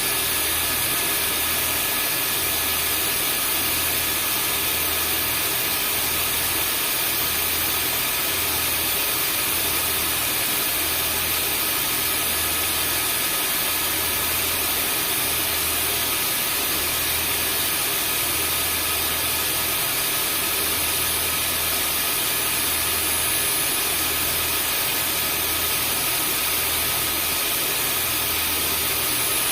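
Vacuum cleaner running steadily: an even rush of air with a few fixed high whining tones from the motor, and a low hum underneath that pulses about once a second.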